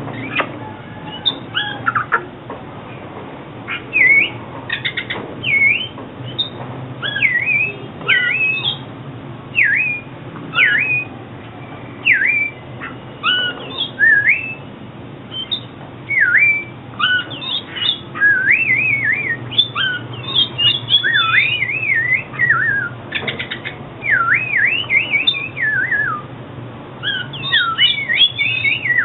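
Oriental magpie-robin singing a run of clear whistled phrases, each note slurring up or down, with a few harsh clicking notes among them.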